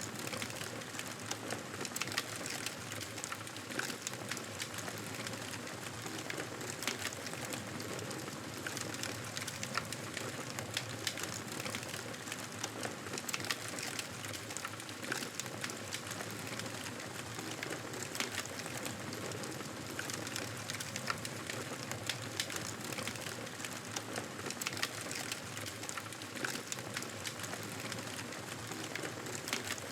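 Fireplace crackling: a steady hiss with frequent sharp, irregular pops and snaps.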